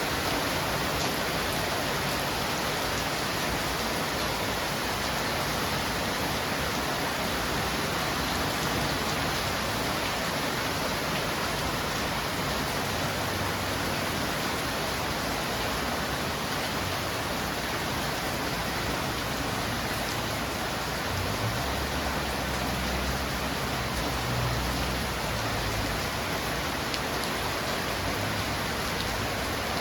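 Steady rain falling, an even hiss with no breaks, with a low rumble underneath for a few seconds about two-thirds of the way through.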